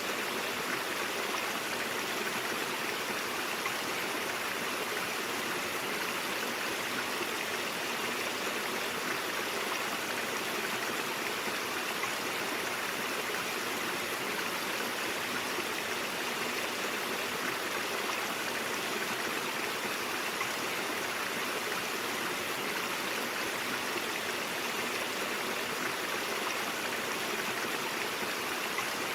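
Stream water flowing over rocks: a steady, even rush with no breaks.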